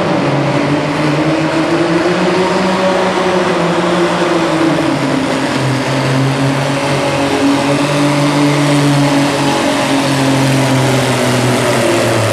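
Antique tractor engine running hard at high throttle during a tractor pull. Its pitch rises a little, then sags and steadies, and drops lower near the end as the engine labours under the pulling load.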